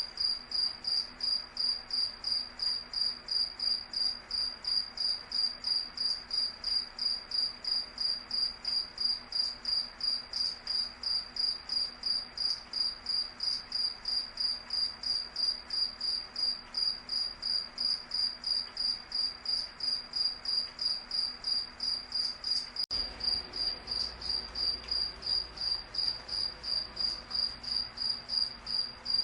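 Cricket chirping steadily: a high, single-pitched chirp repeated evenly, about two to three times a second.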